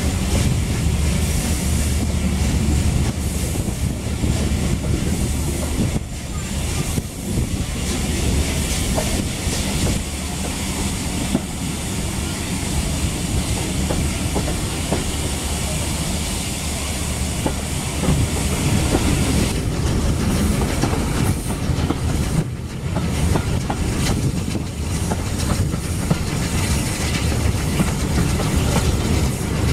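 Steam-hauled passenger train running, heard from an open carriage window: the wheels clicking over the rail joints under a continuous rush of air and running noise.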